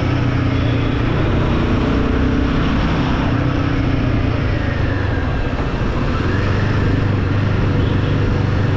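Royal Enfield Guerilla 450's single-cylinder engine running steadily while riding in traffic, under even road noise.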